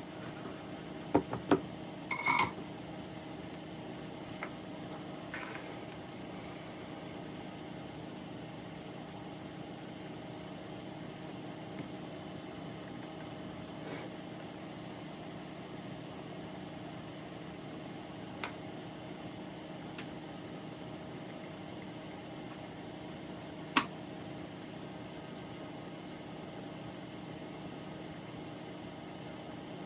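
A steady electrical hum with a few small, sharp clicks and clinks of soldering tools on the workbench: a quick cluster near the start, then single ticks now and then.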